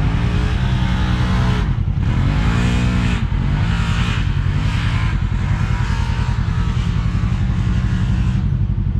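Side-by-side UTV engine running hard close by, revving up and down several times in the first few seconds and then holding a steady high throttle.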